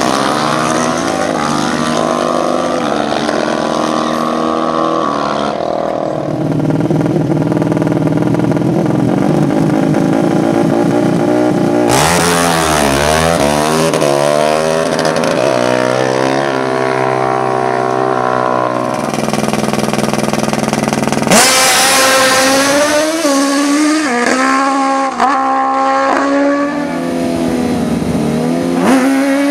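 Racing ATV and motorcycle engines revving and accelerating hard, their pitch repeatedly climbing and dropping as they shift, with the sound changing abruptly several times.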